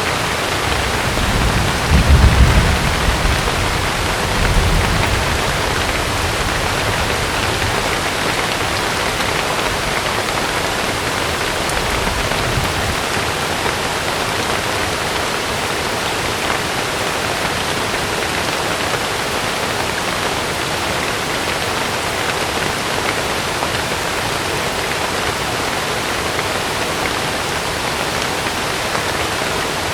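Heavy rain falling steadily. Low rumbles of thunder rise under it in the first five seconds, with a fainter one just before halfway.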